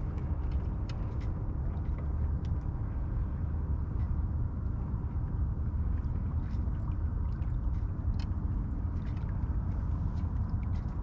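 Steady low rumble of a sailboat under way, wind and water noise, with scattered light clicks and taps from gear on board.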